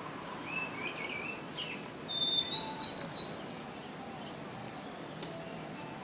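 A tiny bird calling loudly from a tree. A few chirping notes come first, then about two seconds in a loud, high warbling phrase lasts about a second, followed by faint short high chips.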